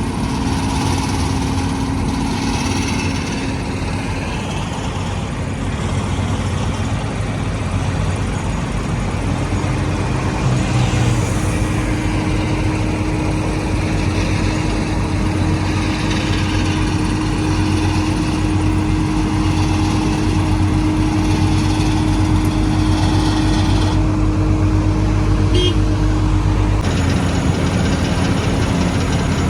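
Engines of road construction machinery running steadily, with an abrupt change in the engine tone about nine seconds in and another near the end.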